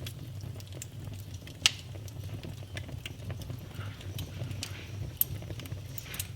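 Wood fire burning in a fireplace: a steady low rumble of flames with scattered crackles and two sharp pops, one about a second and a half in and a louder-sounding second one about five seconds in.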